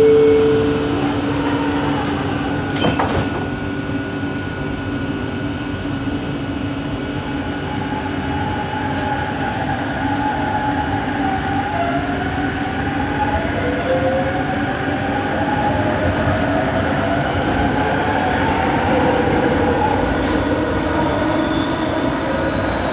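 Bombardier Innovia ART 200 metro train running, with steady running noise and a sharp click about three seconds in. From about eight seconds on, the train's motor drive gives repeated rising whines.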